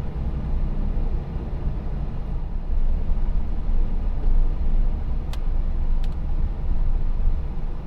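Steady low rumble of a front-wheel-drive car being driven, heard inside the cabin: engine and road noise. Two light clicks come about five and six seconds in.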